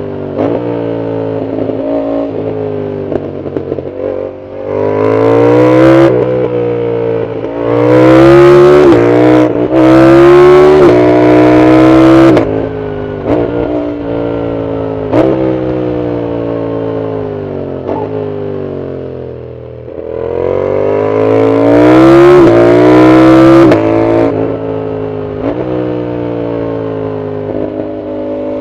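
A Yamaha MT-07's CP2 parallel-twin engine through a full aftermarket exhaust, heard from the rider's seat, accelerating hard several times. The revs climb with quick upshifts in between, then fall away as the throttle is eased, with dips in level about four seconds in and near twenty seconds.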